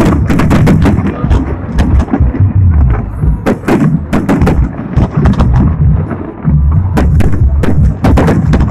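Aerial fireworks going off: many sharp bangs and cracks in quick succession over a continuous low rumble of shell bursts.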